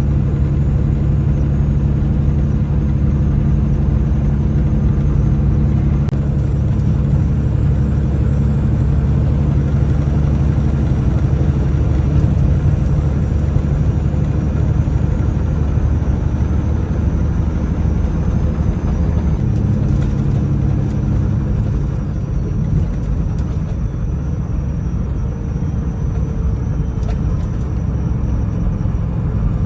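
Semi-truck diesel engine running steadily under way. Its engine note shifts and eases a little about two-thirds of the way through.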